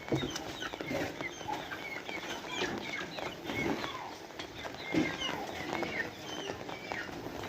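Domestic chickens clucking, with many short high chirps and peeps.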